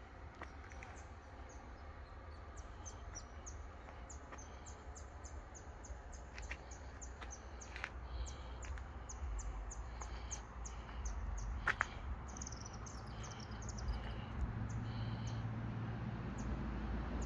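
Small birds chirping in quick series of short, high notes, over a low rumble that grows louder near the end. One sharp click about two-thirds of the way through.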